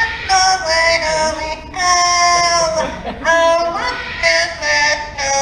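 Yellow-naped Amazon parrot singing a song in a mimicked human voice, with held, wavering notes one after another.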